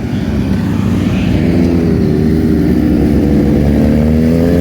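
Vehicle engine running over a low steady rumble, its pitch rising slowly from about a second and a half in as it pulls away.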